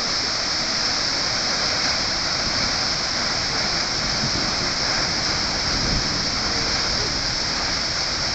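Kegon Falls, a waterfall near Nikko, plunging: a steady, even rush of falling water.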